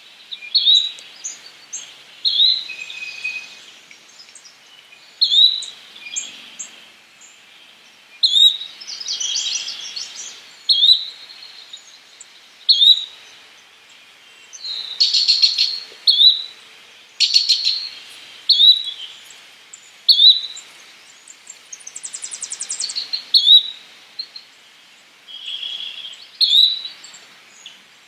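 Yellow-bellied flycatcher calling: a short, sharp rising note repeated about every one and a half to two seconds. Other birds chatter and trill between the calls, including a rapid trill late on.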